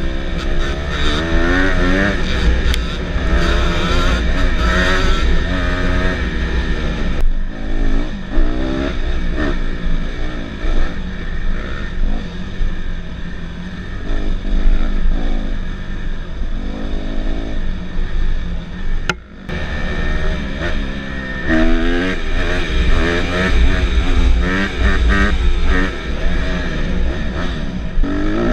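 Small dirt bike engines revving, their pitch rising and falling again and again as the bikes accelerate and shift, over a heavy low rumble. There is a sharp click and a brief drop in sound about two-thirds of the way through.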